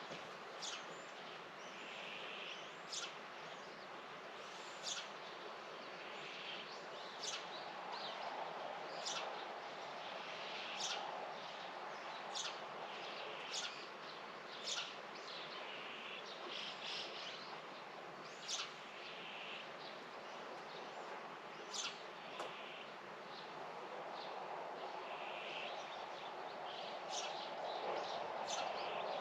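Small birds calling outdoors: short, sharp chirps repeat every second or two. A steady background hum grows louder near the end.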